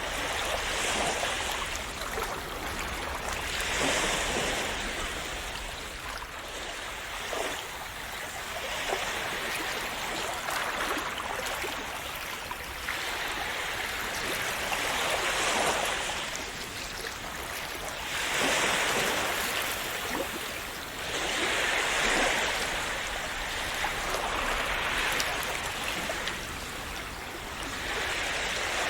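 Small sea waves breaking and washing in, a steady hiss of water that swells every three or four seconds and then ebbs.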